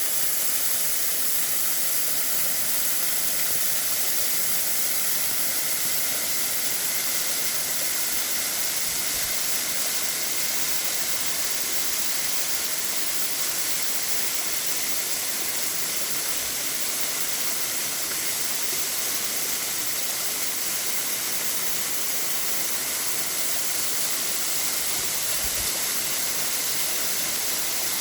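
Mountain waterfall: a steady rush of falling water, hissing and even, with no breaks.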